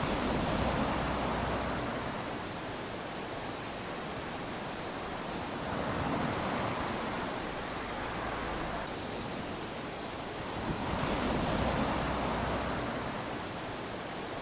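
Small waves washing onto a sandy beach, three surges about five seconds apart, each swelling and fading back into a steady rush of surf.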